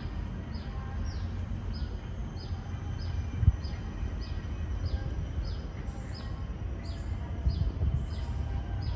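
A bird calling over and over, a short high falling chirp about twice a second, over a steady low rumble. A single sharp knock comes about three and a half seconds in.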